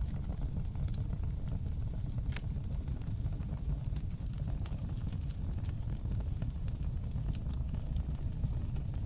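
Wood fire burning in a fireplace: a steady low rumble of flames with scattered sharp crackles and pops, the clearest about two seconds in.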